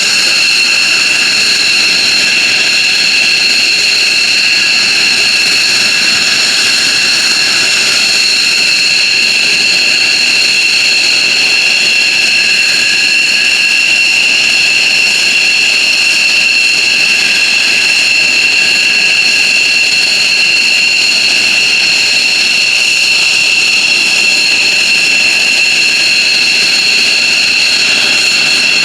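F-15J Eagle's twin F100 turbofan engines running steadily, a loud, unbroken jet roar topped by a high, constant whine.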